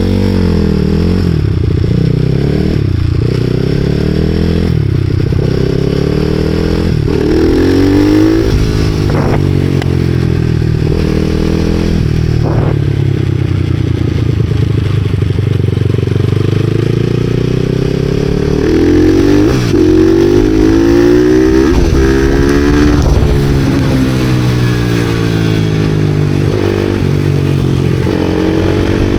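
Supermoto motorcycle engine being ridden, its pitch climbing and dropping again and again as it accelerates, shifts gears and slows.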